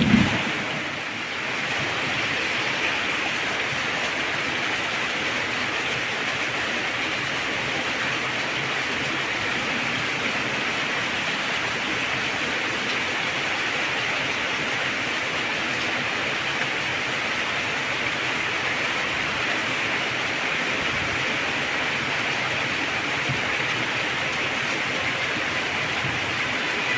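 Heavy rain falling steadily in an even, unbroken hiss. A low rumble of thunder ends right at the start.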